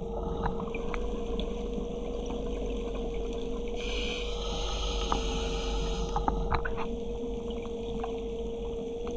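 Underwater sound on a scuba dive: a steady hum over a low rumble, with scattered sharp clicks, and a hiss of about two seconds near the middle.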